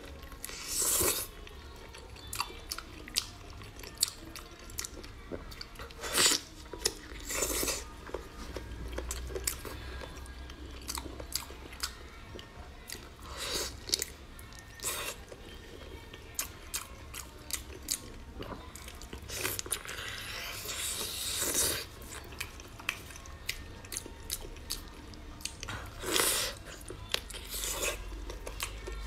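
Close-miked eating of braised pig ear: chewing and biting with a steady run of small wet clicks, broken by louder smacking, sucking bites every few seconds and a longer one about two-thirds of the way through.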